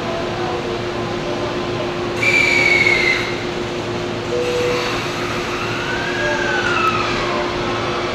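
E231-series commuter train standing at the platform with a steady electrical hum. About two seconds in, a loud high tone sounds for about a second, falling slightly. Later a fainter whine rises and falls.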